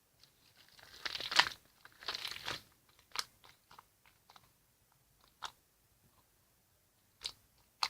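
Homemade slime being squished and worked by hand: two crackly squishes about a second and two seconds in, then scattered small pops and clicks.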